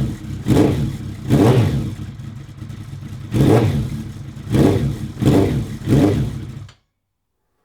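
Suzuki Bandit 1200's air/oil-cooled inline-four engine running and being blipped, with about half a dozen short revs over a steady idle. This is its first run after an engine and gearbox rebuild. The sound cuts off suddenly near the end.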